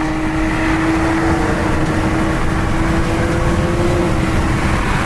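A car at speed, its engine holding one steady note that rises slowly in pitch as it accelerates, over heavy road and wind rumble.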